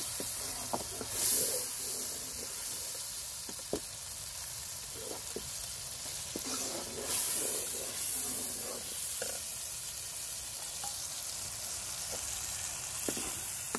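Tomato-onion spice masala sizzling and bubbling in a hot wok-shaped pan, just after a little water has gone in, with a metal ladle stirring it and knocking against the pan now and then.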